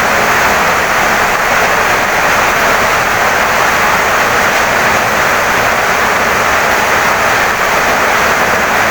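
Heavy rain pouring steadily, a dense even hiss with no single drops, thunder or other events standing out.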